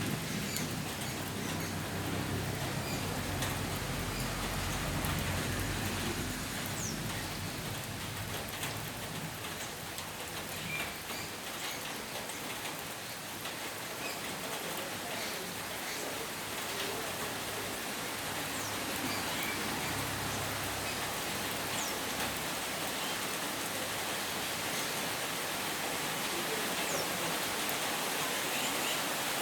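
Steady rain falling, an even hiss, with a low rumble underneath during the first half and a few short high chirps scattered through.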